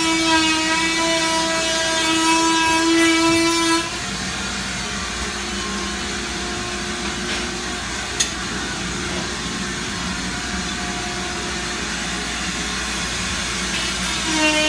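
An electric motor running with a steady, high whine that cuts out about four seconds in. A quieter, lower hum carries on, with a single sharp click midway, and the loud whine starts again near the end.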